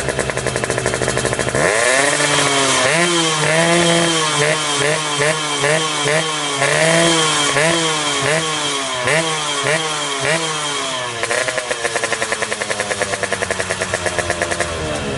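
Two-stroke motorcycle engine with a gutted ('bobokan') exhaust, revved in quick repeated throttle blips, its pitch rising and falling over and over. Near the end it settles into a steadier run.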